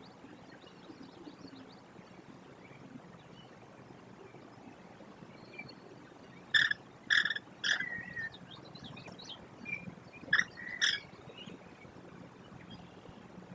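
American kestrel calls at the nest box: three loud, sharp calls about half a second apart, then two more a few seconds later, over faint background bird chirps.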